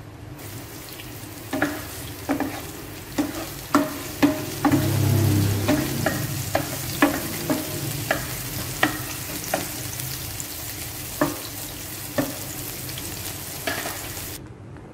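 Chopped spring onions sizzling in hot oil in a nonstick frying pan while a spatula stirs them, knocking and scraping against the pan about a dozen times. The sizzle cuts off abruptly just before the end.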